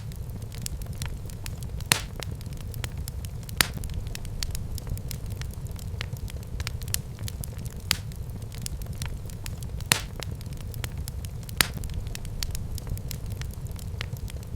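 Wood fire burning in a fireplace: a steady low rumble of the flames with continual small crackles and a few louder pops.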